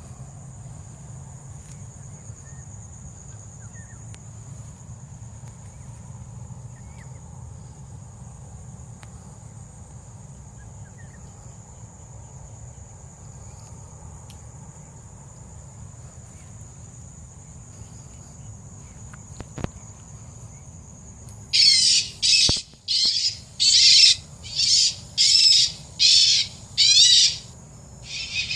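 A steady high-pitched drone with a faint high chirp every few seconds, then, about three-quarters of the way through, a run of about eight loud, harsh bird calls, each about half a second long.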